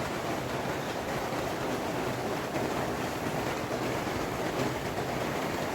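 Steady rushing noise of tropical-storm rain and running water.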